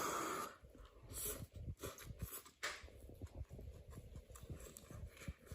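A person eating noisily: a loud breathy slurp or blow at the start, then irregular chewing and lip-smacking clicks.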